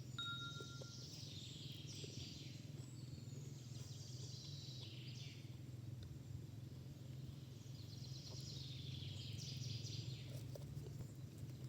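A songbird sings two high trilled phrases that fall in pitch, one in the first half and another near the end, over a steady low rumble.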